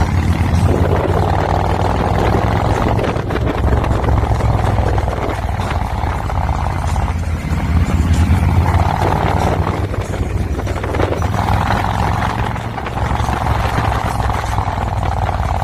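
Harley-Davidson Road Glide's V-twin engine running through its exhaust, a steady deep low-pitched note that swells and eases every few seconds.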